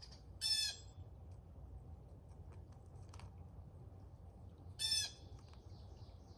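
Crow cawing twice, two short harsh calls about four seconds apart.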